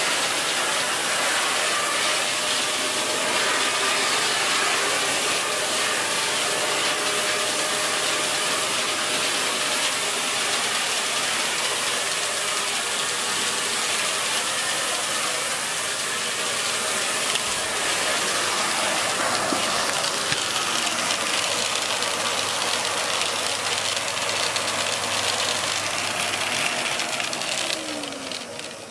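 Dyson Big Ball Animal cylinder vacuum cleaner running steadily while dusting with the dusting brush on the hose. It is switched off near the end, and the motor winds down with a falling whine.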